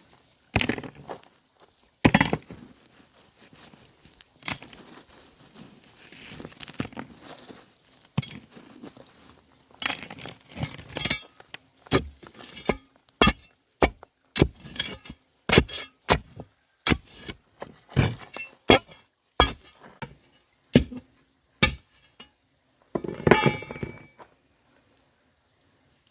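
Repeated sharp blows of a hand tool on bamboo. They are scattered at first, then settle into a steady run of one to two strikes a second, and end in a short rattling clatter.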